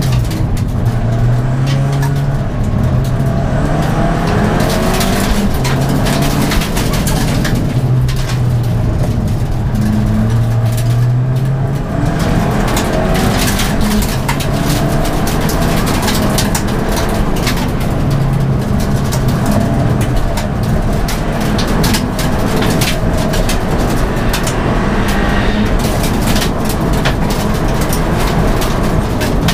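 Ford Fiesta ST race car's four-cylinder engine heard from inside the caged cabin, driven hard up a hill. The revs climb and drop again and again through gear changes and lifts for corners, with many clicks and knocks.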